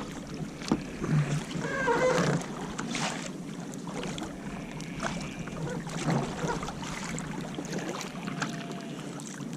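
Kayak paddles dipping and splashing in the water at an irregular stroke rhythm, with light wind on the microphone.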